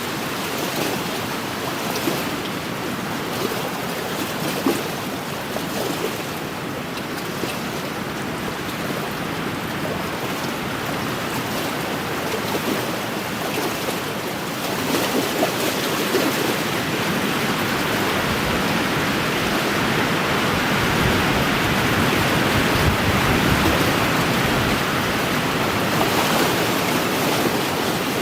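Small wind-driven waves lapping along a lakeshore, with wind blowing steadily. The wind and water get louder about halfway through, and a low rumble of wind comes in on the microphone.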